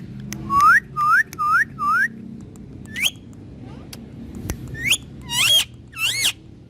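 Parrot whistling: four quick rising whistle notes in the first two seconds, then a few more looping, up-and-down whistles in the second half.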